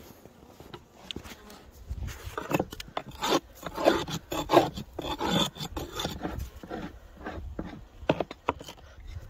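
Irregular scraping and crunching of snow and wood while beehives are dug out after a snowstorm, busiest through the middle.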